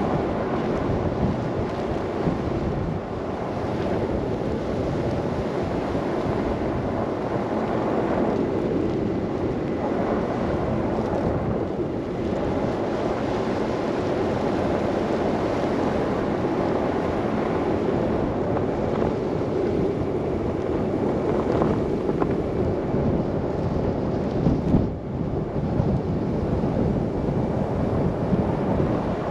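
Steady rushing of wind and road noise from a car driving through a snow blizzard, with wind buffeting the microphone. There is a short dip in the noise about 25 seconds in.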